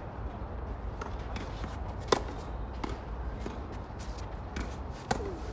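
Tennis ball impacts, racket hits and ball bounces, with shuffling footsteps on the court; the sharpest knock comes about two seconds in and another near the end.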